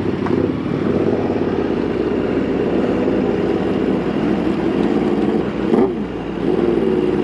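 Motorcycle engine running under way. About six seconds in, the engine note briefly drops and then climbs again.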